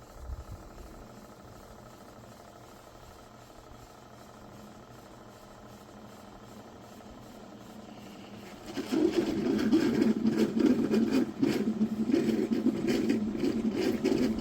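Ninja DualBrew Pro coffee maker starting to brew: after a faint steady hum, its pump and heater kick in about nine seconds in, with a loud steady drone and rapid sputtering and gurgling of hot water.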